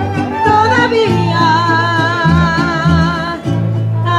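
Mariachi band performing a ranchera song. A singer finishes a line about a second in, then the melody instruments play a short phrase with vibrato over guitar strumming and a bass line.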